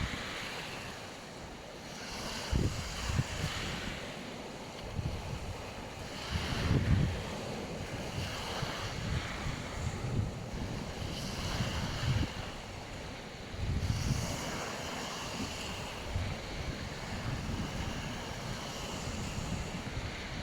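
Black Sea waves breaking and washing up on a beach, swelling every few seconds, with wind buffeting the microphone.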